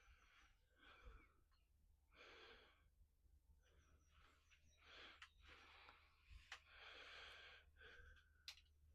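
Near silence, with faint soft breath-like puffs of noise every second or so and a few small clicks.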